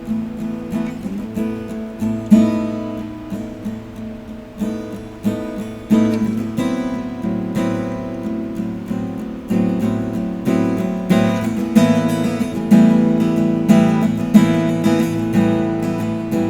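Acoustic guitar playing an instrumental intro, strummed chords with a steady rhythm of sharp attacks.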